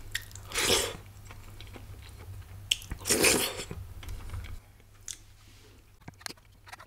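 Close-miked eating sounds: chewing and small wet mouth clicks from mouthfuls of rice and dal tadka eaten by hand. Two louder breathy noises come through, one about half a second in and one at about three seconds.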